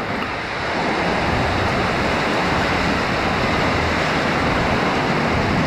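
Heavy tropical rain pouring down in a windstorm: a steady, dense hiss of rainfall with wind.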